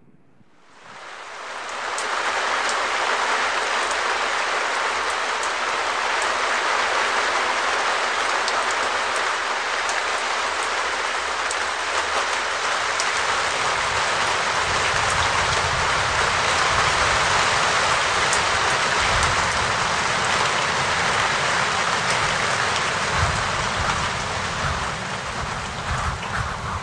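Steady rain falling, with scattered drops ticking close by; it fades in over the first two seconds. From about halfway through, a gusty low rumble of wind on the microphone joins it.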